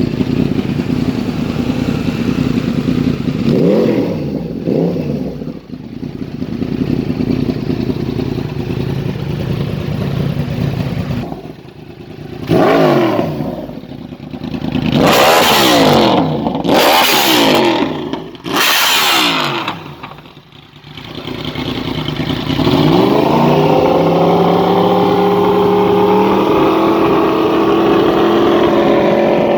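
Yamaha R1's crossplane inline-four engine idling with a lumpy beat, blipped lightly, then revved sharply several times, each rev rising and falling quickly. About two-thirds of the way in, it climbs to a steady higher note and holds there.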